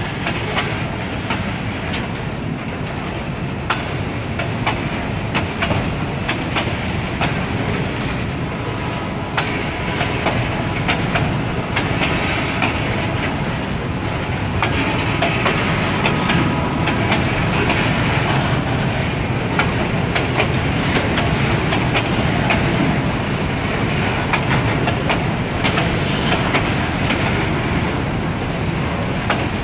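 Freight train wagons rolling past, their steel wheels clicking rhythmically over rail joints in a steady loud rumble. There is a faint wheel squeal around the middle.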